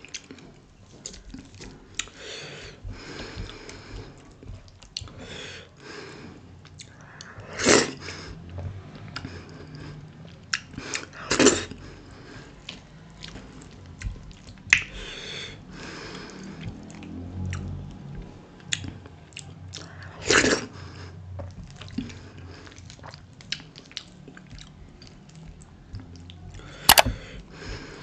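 Close-up chewing and lip smacking of a person eating dhido with sisnu (nettle curry) by hand. A few louder smacks stand out several seconds apart.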